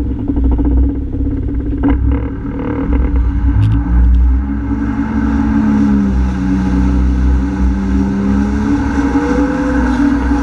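Honda F-12X AquaTrax personal watercraft's turbocharged four-cylinder engine running with a steady low rumble, its tones gliding slowly up and down in pitch.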